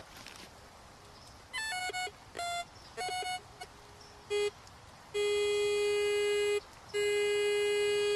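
Metal detector sounding off over a target: a few short chirping beeps, then two long, steady tones of about a second and a half each near the end, a good high-tone signal.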